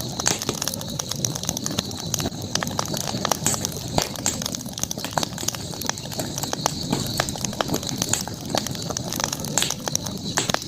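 Campfire crackling, with irregular sharp pops and snaps of burning wood, the sharpest about four seconds in, over a steady high hiss.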